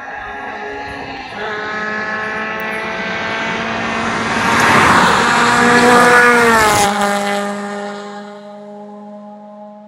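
Honda Civic Si engine through a 4x1 stainless header and free-flowing catback exhaust: the exhaust note swells to a loud peak, drops sharply in pitch about seven seconds in, then fades out as a steadier, quieter drone.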